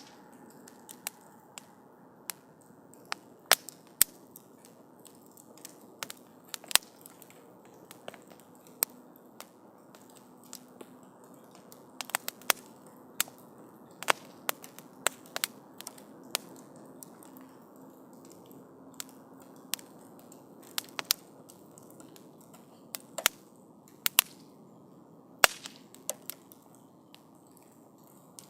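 Wood campfire crackling, with irregular sharp pops, some of them loud, over a low steady rush from the flames.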